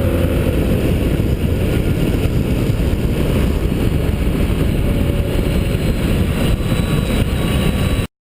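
Motorcycle engine running under heavy wind rumble on a bike-mounted microphone, a steady low roar that cuts off abruptly about eight seconds in.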